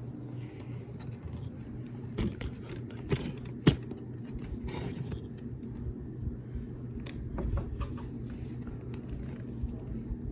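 Vintage Sears ceiling fan running on high, its motor giving a steady low hum. A few sharp clicks and light rattles come over it, the loudest about a third of the way in.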